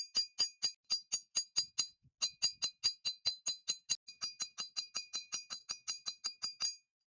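Hammer striking steel on an anvil in a fast, steady rhythm of about four to five blows a second, each blow with a bright metallic ring. A brief pause comes about two seconds in, the blows are lighter in the second half, and they stop shortly before the end.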